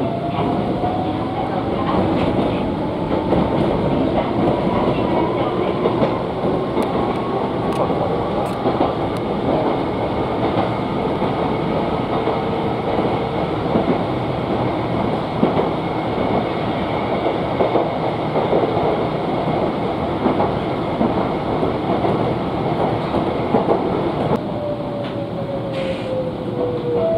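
Inside an electric commuter train car built around 1970, running: a steady rumble of wheels on rail with occasional clicks. A motor whine rises in pitch over the first dozen seconds as the train gathers speed, and a falling whine comes near the end as it slows.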